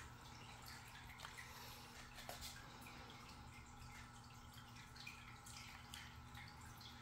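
Near silence: faint scattered drips of rain falling outside, over a low steady hum.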